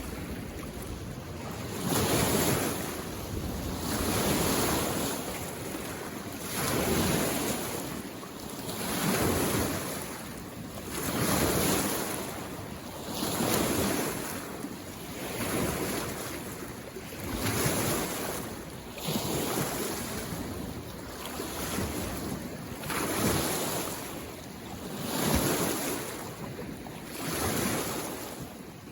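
Small waves on a mountain lake washing in, each one swelling and fading, about one every two seconds in a steady rhythm.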